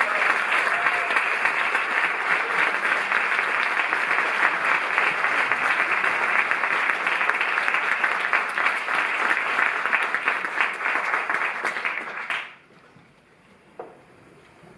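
Audience applauding steadily, the clapping stopping fairly suddenly about twelve seconds in, leaving a quiet hall with one small knock.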